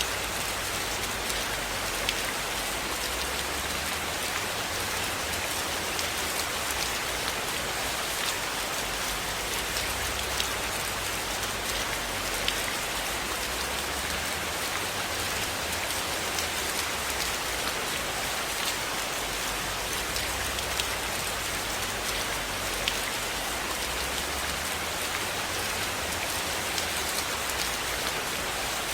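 Steady, even rainfall, with scattered sharp ticks now and then.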